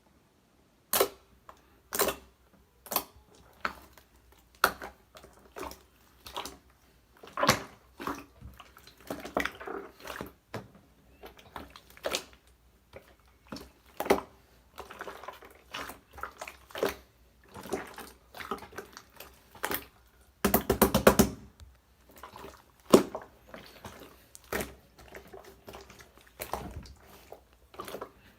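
Clear slime with another slime being mixed in by hand, squished and pressed so it gives sharp sticky pops and clicks every second or so. About twenty seconds in there is a quick run of rapid crackling pops.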